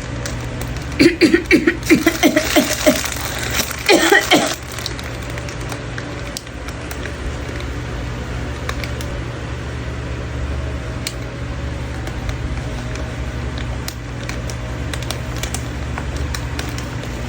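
A person's voice in a quick run of short, repeated bursts about a second in and again briefly near four seconds, then a steady low hum with scattered faint clicks.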